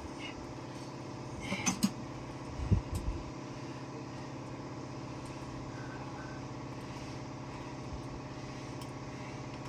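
A steady mechanical hum, even in pitch and level, with a few light knocks and clinks of hand tools on metal about two and three seconds in.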